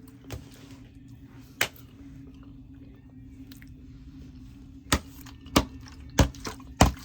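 Close-up eating sounds: chewing with a few sharp mouth or utensil clicks, four of them in quick succession in the last two seconds, over a low steady hum.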